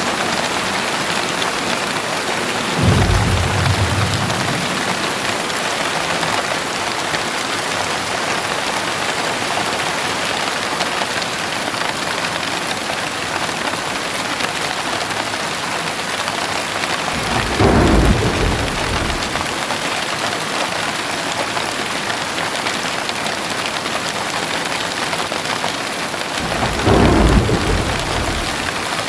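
Heavy rain falling steadily, with a low rumble of thunder three times: about three seconds in, about eighteen seconds in, and again near the end.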